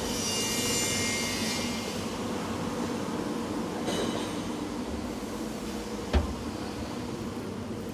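Steady machinery rumble with a hum, a high metallic squeal in the first second or so, and a single sharp knock about six seconds in.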